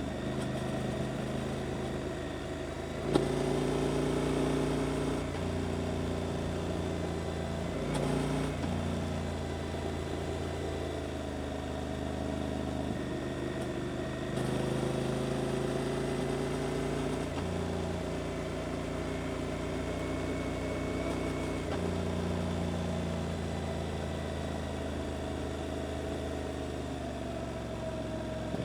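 Suzuki GSX-8S parallel-twin engine through an Arrow aftermarket exhaust, running under way with the revs rising and falling several times as the rider works through bends. There is a sharp click about three seconds in.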